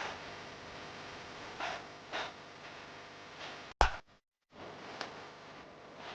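Low room hiss with a few soft rustling noises, a sharp click a little under four seconds in, and then a brief dead-silent gap, like an edit cut.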